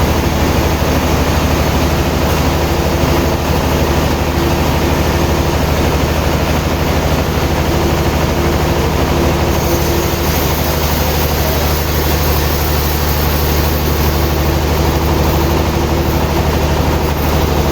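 Sawmill machinery running steadily with a constant low engine hum.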